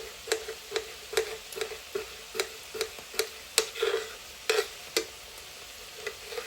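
A spoon stirring in a dish, clinking against its side in a steady rhythm of about two to three knocks a second, with a short pause near the end.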